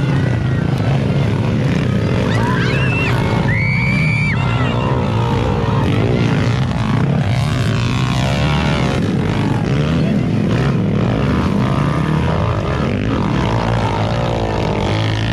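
Motocross dirt-bike engines running and revving. A short high tone sounds about four seconds in.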